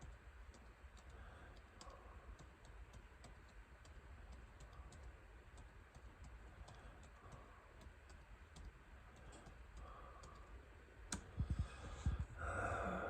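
Faint, irregular typing clicks while searching online for jet pump bearings. Near the end come a few louder knocks and a short rush of noise.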